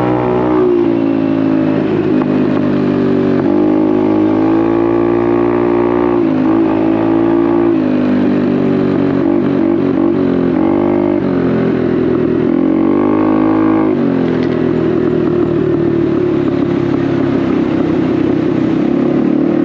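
Honda Navi's small single-cylinder engine running through an aftermarket Vance & Hines exhaust while riding, its note rising and falling several times as the throttle is opened and eased off.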